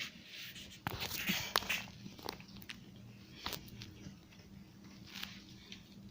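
Kittens scuffling and moving about: scattered light clicks and taps, with a louder stretch of rustling about a second in.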